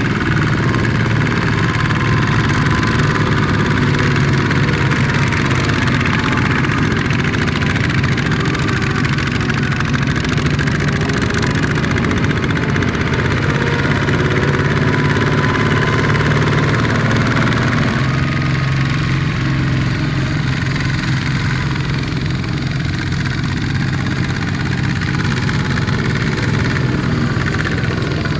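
Small tractor engine running steadily at a low, even note, its tone shifting slightly about two-thirds of the way through.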